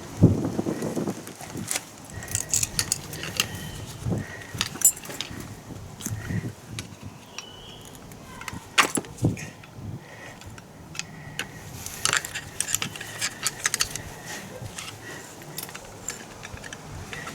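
Small metal parts and hand tools clinking and rattling as they are handled, with irregular sharp clicks throughout and a few louder knocks.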